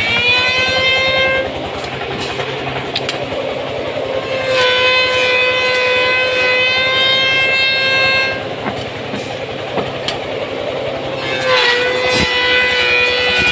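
Automatic woodworking machine shaping wooden tool handles, running with a loud whine that comes in three spells about seven seconds apart as each cut is made. Each spell dips slightly in pitch as it begins, then holds steady. Between spells the machine runs with a rougher, noisier sound and a few sharp knocks.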